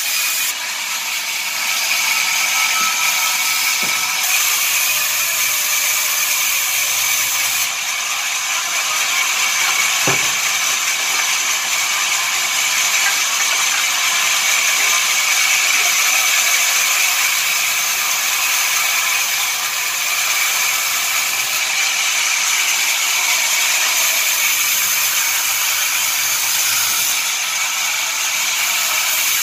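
Sawmill saw running, a steady high-pitched whine over a constant hiss, with a couple of faint knocks.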